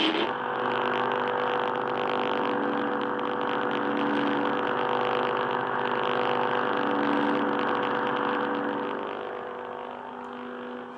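Lightsaber sound-font hum: a steady, staticky, slightly grungy electric buzz made of several held pitches over a hiss, easing quieter in the last second or so.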